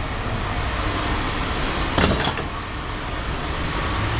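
Steady engine-like running noise, with a sharp clank about two seconds in and a lighter one just after.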